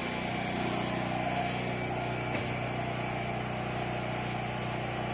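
Portable generator engine running steadily at a constant speed, a droning hum with no change in pitch.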